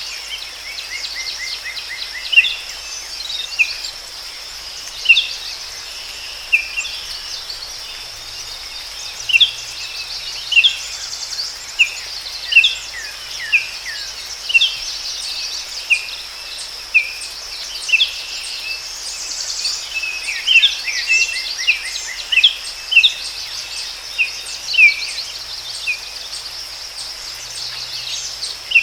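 Forest ambience: many short bird chirps and calls, a few in quick trills, over a steady high-pitched insect buzz.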